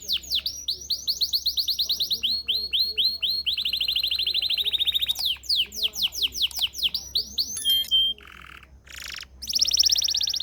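Domestic canary singing: a long run of fast trills of down-slurred whistled notes that shift in speed and pitch. Near the end come lower buzzy notes, then a loud, fast buzzing trill.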